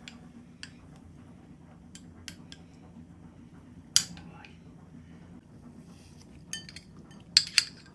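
Cutlery clinking against plates and dishes during a meal: scattered sharp clinks, the loudest about four seconds in and two more close together near the end.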